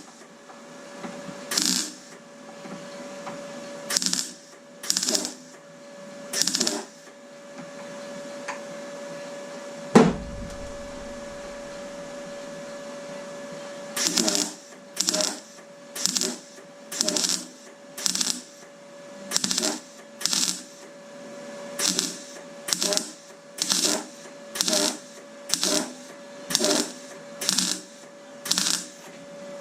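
Welder laying short tack bursts into a car door's bottom panel, each burst a brief crackle under half a second long: a few spaced bursts, then a quick run of about one a second through the second half. A single loud thump comes about ten seconds in, and a steady hum runs underneath.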